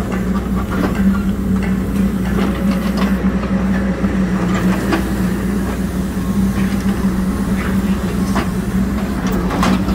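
Hidromek 102S backhoe loader's diesel engine running with a steady hum, with scattered short knocks and scrapes from the work throughout.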